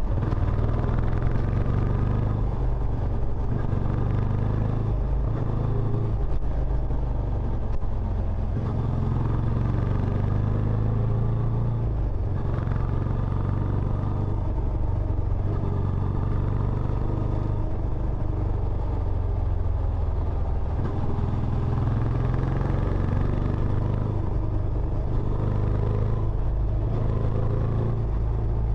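Benelli Imperiale 400's single-cylinder engine running through its stock exhaust, a steady deep exhaust note with small rises and falls in level.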